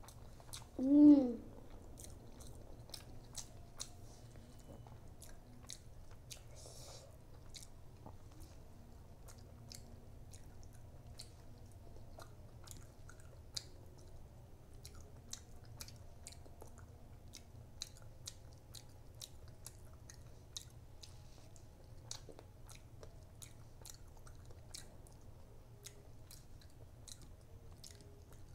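Close-miked wet chewing and lip smacking of a person eating rice, dal and fish curry by hand: a steady run of small mouth clicks. About a second in there is one short, loud hummed "mm" that rises and falls in pitch.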